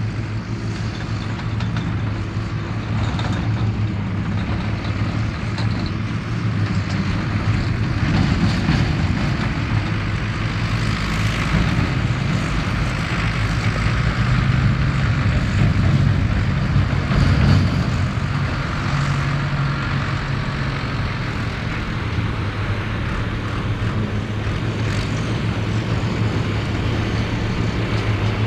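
Ford 8630 tractor's diesel engine working steadily under load as it drives a Mengele SH40N forage harvester. The harvester's chopping and blowing adds a steady noise over the engine note, a little louder in the middle stretch.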